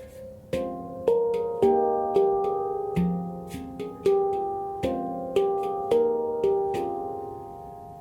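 F minor handpan by Oasis Sound Sculpture played by hand: struck, ringing steel notes about two a second in a flowing melody. The last note is left to ring out near the end.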